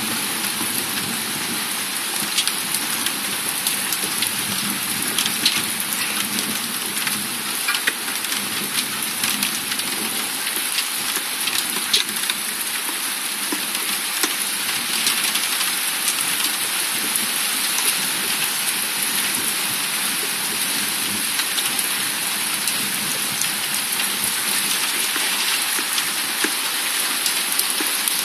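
Heavy thunderstorm rain falling steadily: a dense, even hiss with many single drops ticking close by.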